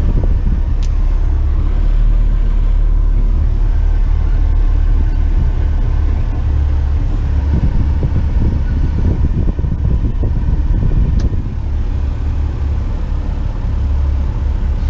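Heavy tipper truck's diesel engine idling, a steady low rumble, with a couple of light clicks.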